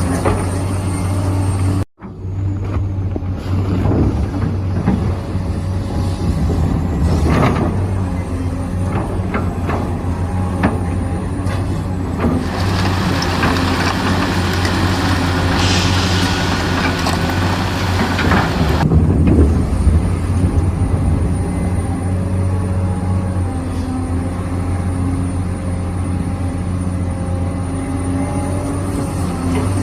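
Radio-controlled model Volvo excavator's hydraulic pump running with a steady low hum, with scattered knocks as it works. The sound cuts out briefly about two seconds in, and a loud hiss runs for about six seconds midway.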